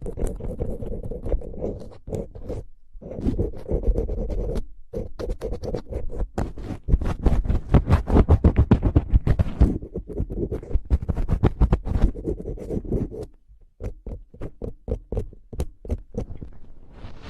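Rapid close-up scratching on a surface near the microphone, dense and irregular, stopping briefly three times.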